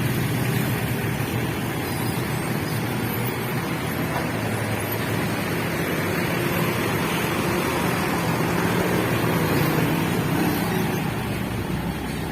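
Road traffic at a railway level crossing: vehicle engines running and passing steadily.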